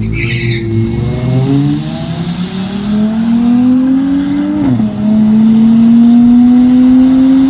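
A car engine at full throttle in a drag-strip run, its pitch climbing steadily. About 4.7 s in the pitch drops sharply as the transmission upshifts, then it climbs again. A brief high screech sounds at the very start.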